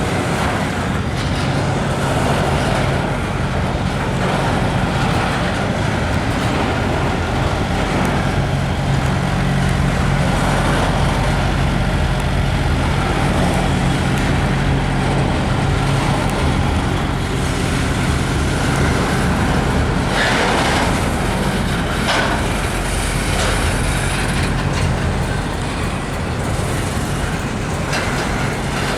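A train rolling past: a steady rumble of wheels on the rails over a low engine hum, with a few sharp clanks about two-thirds of the way through.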